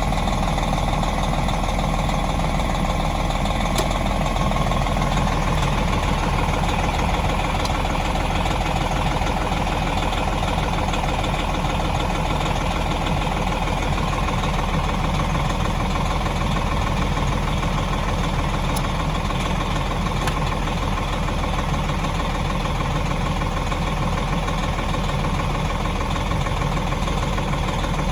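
Bus engine running steadily at an even level, with no change in speed or load.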